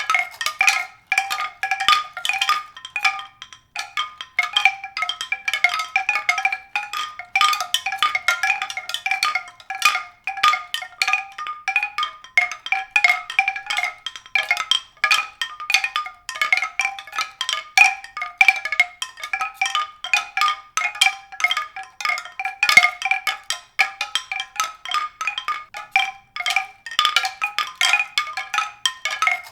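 Struck tuned percussion: a dense, irregular stream of quick bright ringing notes at a steady level.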